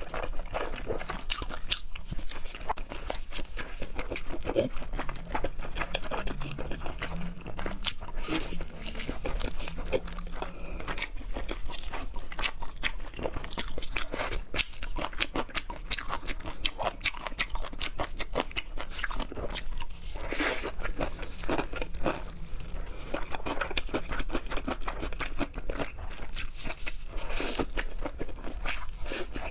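A person eating seafood close to the microphone: continuous crunching, biting and chewing, a dense run of small sharp clicks with no pauses.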